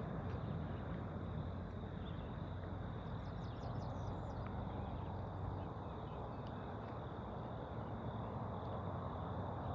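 Steady low outdoor rumble by the river, with a few faint bird chirps about three to four seconds in.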